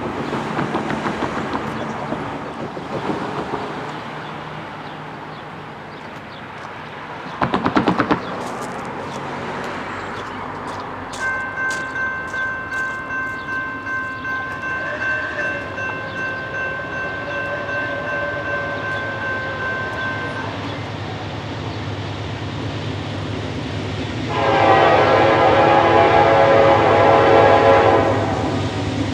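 Approaching diesel freight train led by a GE D9-40CW locomotive, with a low engine rumble that grows steadily. A bell rings in steady, even strokes for about ten seconds, then the locomotive's air horn sounds one long blast of about three and a half seconds near the end. A brief loud clatter comes about seven seconds in.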